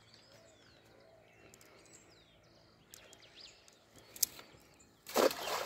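Outdoor quiet with faint birds chirping in the background. A single sharp click comes about four seconds in, and a brief loud rush of noise follows near the end.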